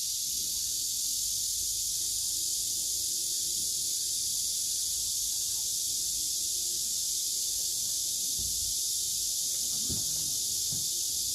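Steady high-pitched hiss of outdoor ambience, unbroken, with a couple of faint low knocks near the end.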